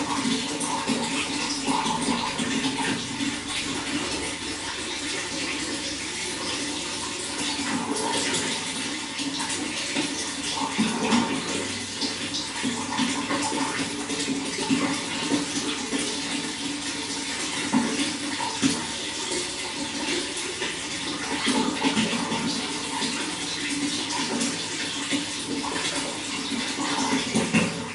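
Running water splashing and gurgling steadily, with many small splashes.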